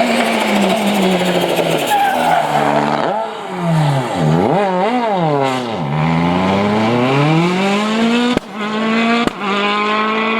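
Rally car engine at full throttle on a stage. Its pitch swings up and down sharply through the middle as the driver lifts off and gets back on the throttle for corners, then climbs in steps through the gears. There are two abrupt breaks near the end.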